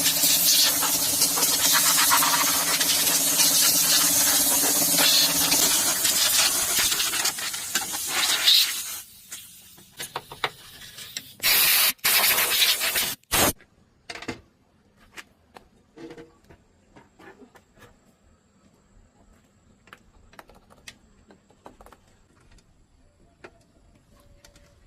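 A loud, steady hissing spray with a low hum under it, ending about nine seconds in. Two short hissing blasts follow near the middle, then only faint scattered clicks and taps.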